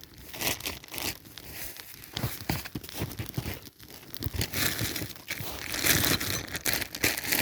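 Small kindling fire of dry willow twigs catching: irregular crackling and snapping that grows denser and hissier about two-thirds of the way through as the twigs flare up.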